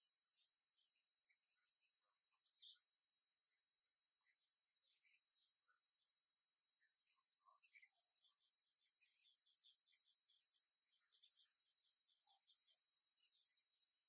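Small birds chirping: short, high chirps, some sliding up and some down, scattered throughout over a faint steady hiss, with a louder run of chirps a little past the middle.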